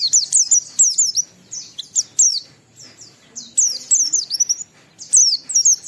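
Pleci (white-eye, Zosterops) in full ngalas song: a rapid, high-pitched chatter of quick downward-sweeping notes in three runs with short pauses between them.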